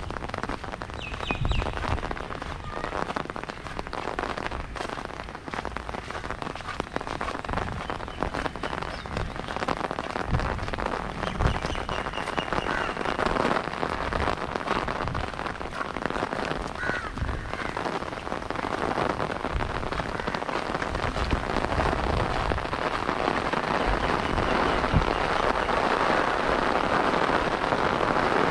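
Rain falling steadily, with many drops pattering on surfaces. It grows heavier and louder over the last several seconds.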